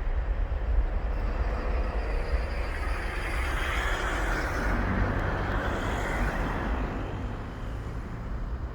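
A passing aircraft's engine noise, a broad rush that swells to a peak about halfway through and then fades, over a steady low rumble.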